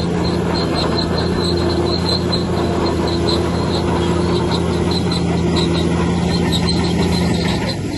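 Bulldozer's diesel engine running steadily, with a short high squeak repeating two or three times a second. The engine note drops near the end.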